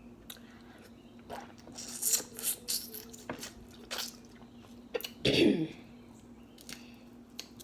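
Close-up eating of a saucy seafood boil: wet smacking, sticky clicks and squishes, with a cluster of smacks about two seconds in and one louder burst about five seconds in.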